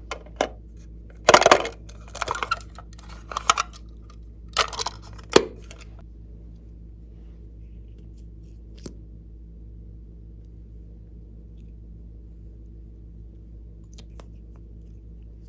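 A run of sharp clicks and rustling handling noises lasting about five seconds, then a single click and a steady low hum.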